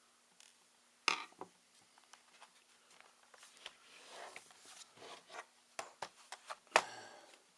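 Handling noise from a ThinkPad T61 laptop being taken apart by hand: small clicks, taps and scraping of tools and parts on the case, with two sharper clacks, one about a second in and one near the end.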